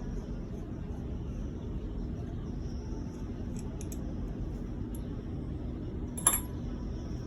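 Steady low hum with a few faint ticks, and one sharp clink of a hard object a little over six seconds in.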